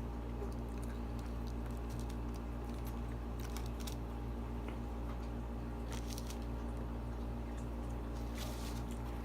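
Steady low electrical hum, with scattered short wet clicks and smacks of chewing a few times.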